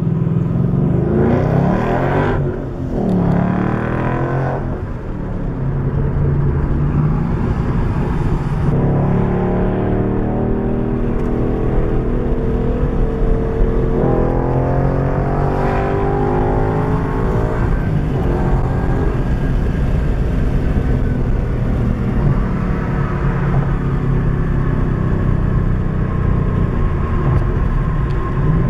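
2014 Mustang GT's 5.0 L V8 running through a Roush axle-back exhaust, revving and accelerating. The pitch climbs and drops several times in the first half, then holds steadier toward the end.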